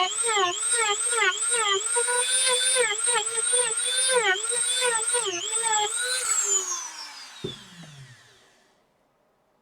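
Dremel rotary tool grinding into the epoxy of a DS12887A real-time clock chip. Its whine dips in pitch again and again as the bit bites, then it is switched off about six seconds in and winds down, falling in pitch. A single sharp click comes as it runs down.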